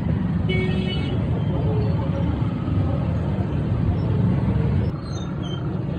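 A motor vehicle engine running with a steady low rumble, against faint background voices.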